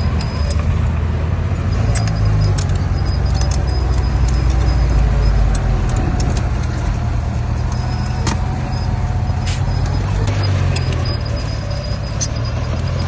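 Diesel engine of heavy earthmoving machinery running steadily under load, with the pitch shifting slightly now and then. Frequent sharp metallic clinks and clanks ring out over the engine.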